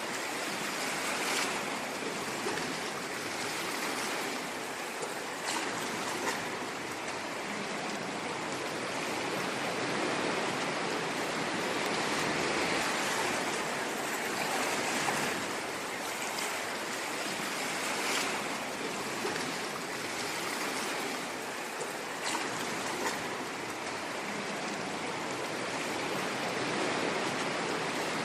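Ocean waves washing on a shore: a steady rush of surf that swells and eases a little in loudness, with faint crackles of spray.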